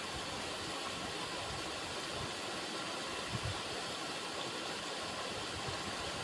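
River water running, a steady rushing hiss, with a brief low thump about three seconds in.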